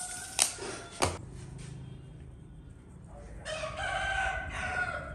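Two sharp knocks about half a second and a second in, then a rooster crowing once near the end, one long call held for about a second and a half.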